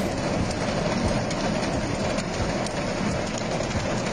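Torrential rain pouring onto a flooded street, a dense, steady hiss of rain.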